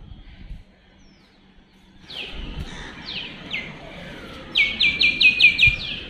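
A songbird calling outdoors: a few single, quick down-slurred chirps from about two seconds in, then a fast run of about six down-slurred notes near the end.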